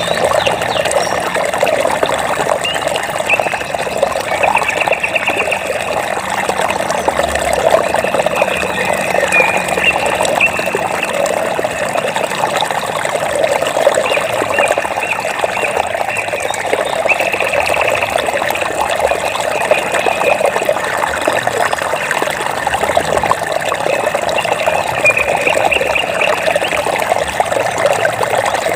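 Running water trickling and splashing steadily, with short, rapid chirping trills recurring every few seconds over it.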